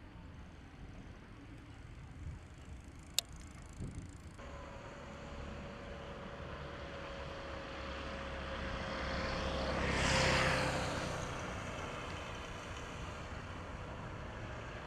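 An aircraft flying past, its engine drone swelling to its loudest about ten seconds in and then fading, the pitch dropping slightly as it goes by. A sharp click about three seconds in.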